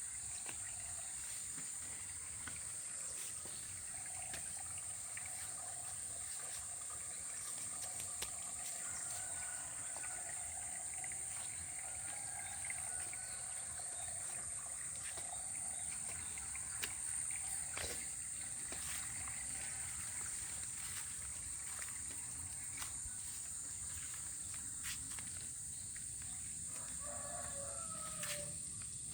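Outdoor nature ambience dominated by a steady, high-pitched insect drone, with a low wash of water and a few faint scattered clicks and calls.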